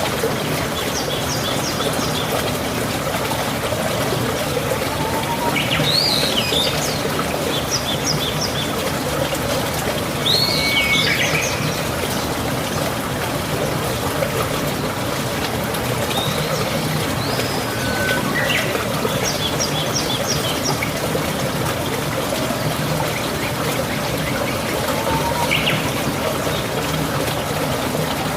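Birds chirping now and then, short high calls and quick trills a few seconds apart, over a steady trickling of running water.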